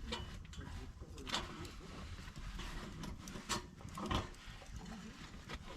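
A few scattered sharp knocks and clicks over a steady low background noise.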